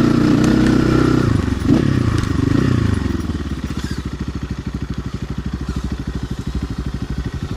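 RXB250XL dirt bike engine running under throttle on a muddy trail, with a single knock a little under two seconds in. It then drops to a low, even, pulsing idle from about three seconds in.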